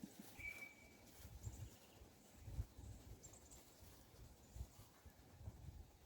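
Near silence with faint bird calls: a short whistled note about half a second in, then a few thin high chirps, over low intermittent rumbling.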